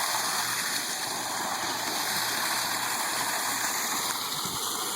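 Water cascading steadily down a stacked-stone backyard waterfall about 7.5 feet high, a constant splashing rush.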